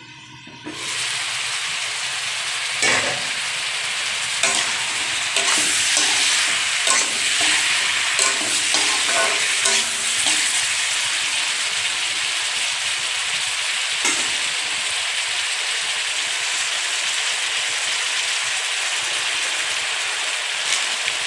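Chicken pieces sizzling in hot oil in a kadhai, with a metal spatula scraping and knocking against the pan as they are stirred. The sizzle turns loud about a second in, as the lid comes off.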